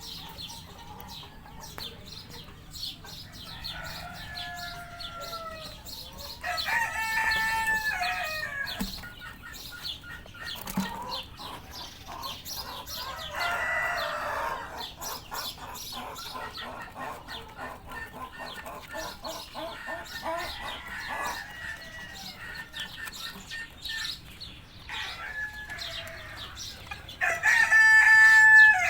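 White Rose Comb bantam chickens clucking and crowing, with repeated calls and the loudest call near the end.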